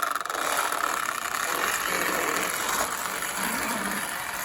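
Postwar O gauge model locomotive's electric motor and gearing running steadily, starting up and straining to pull a long, heavy train.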